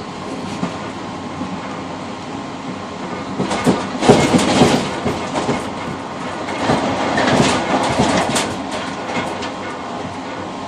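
Passenger train running along the track, heard from inside the cab vestibule of its tail car: a steady rumble, with two spells of louder wheel clatter over rail joints or points, the first about three and a half seconds in and the second around seven seconds in.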